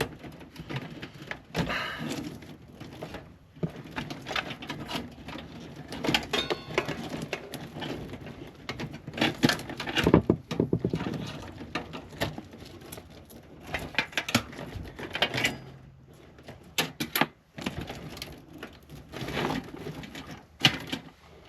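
Irregular clicks, knocks and rattles of parts and cables being handled inside a computer case during disassembly.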